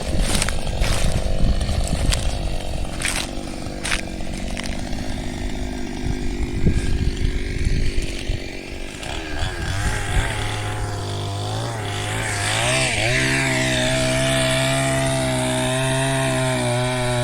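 Ryu 22-inch two-stroke petrol chainsaw running and cutting wood, a rough sound with scattered clicks. About halfway through, the engine note turns into a clear pitch, wavers for a few seconds, then holds steady.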